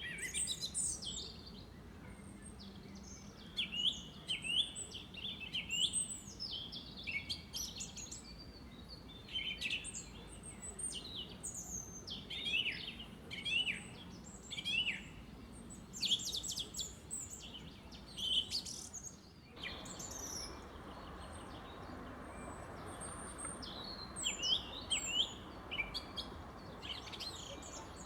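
Several wild birds singing and calling over one another in a spring morning chorus: dense, quick, high chirps and whistled phrases. About two-thirds of the way through, the sound changes abruptly: a steady hiss comes in underneath and the birdsong thins.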